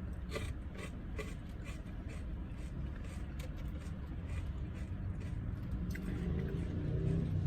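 Close-up chewing and crunching of food, with scattered short crisp clicks, over a steady low rumble inside a car's cabin.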